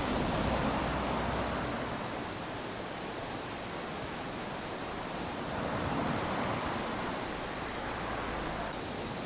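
Small waves lapping onto a sandy beach: a steady hiss of surf that swells as a wave washes in at the start and again about six seconds in.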